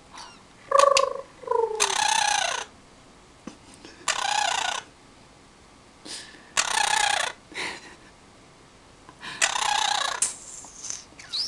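Peach-fronted conure calling: two short pitched notes about a second in, then four harsh, raspy squawks of under a second each, roughly every two and a half seconds.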